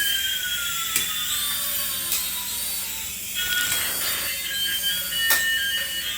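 Battery-operated light-up toy playing electronic sound effects: a falling tone and a rising tone glide past each other, then steady high beeping tones start about halfway, with a few sharp clicks.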